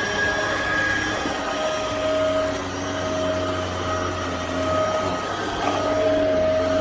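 ElecKeys K10 cordless stick vacuum cleaner running: a steady motor whine over a rush of air.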